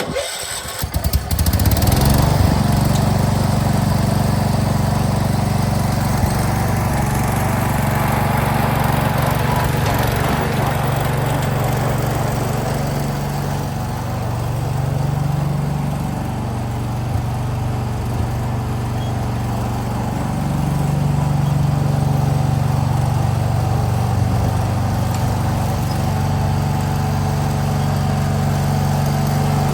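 Wheel Horse garden tractor's engine coming up to speed in the first couple of seconds, then running steadily, its pitch dropping and rising again a few times as engine speed changes.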